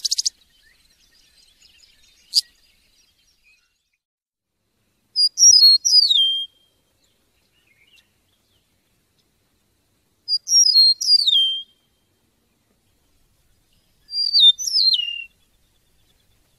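A songbird singing the same short phrase three times, about four seconds apart: a quick run of high notes stepping down in pitch, each phrase lasting about a second. A brief trill ends the very start, and there is a single click a couple of seconds in.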